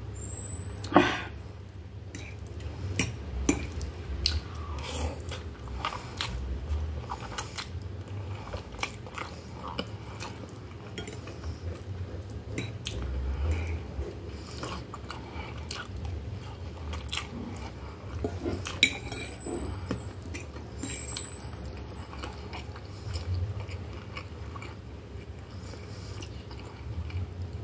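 Close-up eating sounds: chewing and swallowing of baked instant noodles with melted cheese and sausage, with a fork scraping and clinking on a glass plate. A sharp knock about a second in is the loudest sound.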